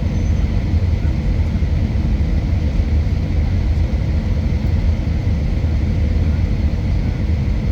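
Steady low rumble of an Airbus A319's engines and airflow heard inside the passenger cabin during the descent, with a few faint steady tones above it.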